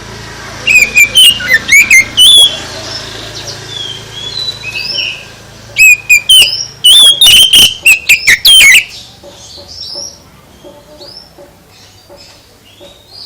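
Songbird singing loud, rapid whistled phrases with quick up-and-down pitch glides, in two bursts: about a second in, and again from about six to nine seconds. Softer chirps follow near the end.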